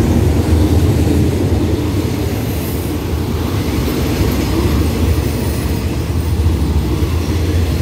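Passenger coaches of an arriving express train rolling past the platform, a steady low rumble of wheels on rail that eases slightly as the train draws in to stop.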